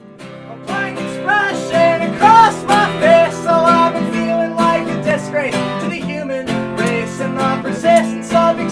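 Acoustic guitar strumming a song, with a melody line over the chords. It fades in over the first second.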